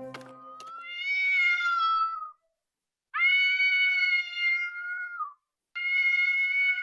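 A cat meowing three times, each a long drawn-out meow of about two seconds, held at a steady pitch and dropping at the end. The strummed acoustic guitar music stops just before the first meow.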